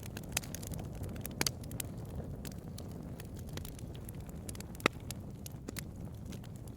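Bonfire burning: irregular sharp crackles and pops over a steady low rumble, with the loudest pop about five seconds in.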